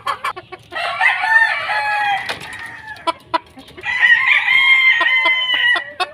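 Gamefowl roosters crowing: two long crows, one about a second in and a louder one about four seconds in, with short clucks and sharp calls between them.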